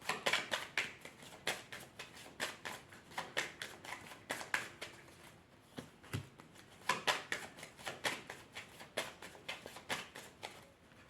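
A deck of divination cards shuffled by hand: a quick, irregular run of card slaps and flicks, easing off for a moment about halfway through.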